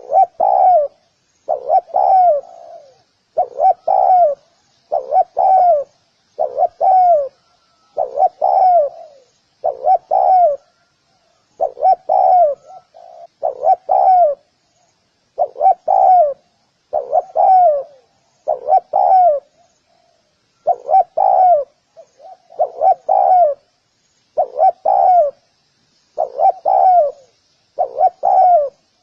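Spotted dove cooing: a low two-note coo phrase repeated steadily about every one and a half to two seconds.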